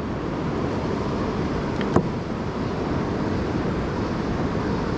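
Steady rush of flowing river water and wind on the microphone, with a single sharp click about two seconds in.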